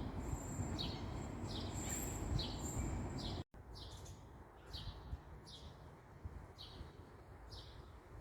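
A bird calling over and over in short, falling notes, a little under one a second, over a low background rumble. A sudden brief dropout about three and a half seconds in, after which the rumble is quieter while the calls go on.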